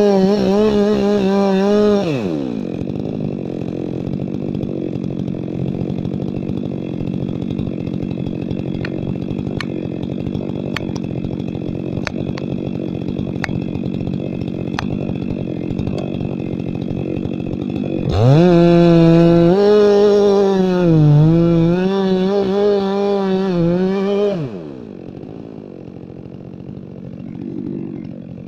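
Two-stroke chainsaw at full throttle, dropping to idle about two seconds in, with a few sharp clicks while it idles. About two-thirds of the way through it revs high again for some six seconds, the pitch sagging and wavering as under load, then drops back to a quieter idle.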